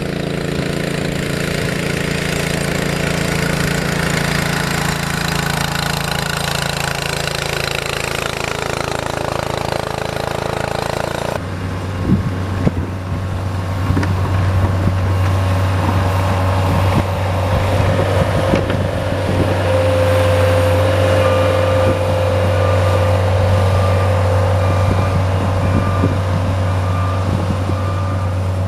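Engine of a snow-clearing machine running steadily. About eleven seconds in, the sound cuts abruptly to a lower, steadier engine drone, with scattered knocks and clatter for a few seconds after the change.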